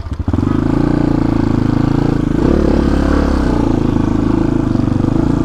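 Motorcycle engine running at fairly steady revs.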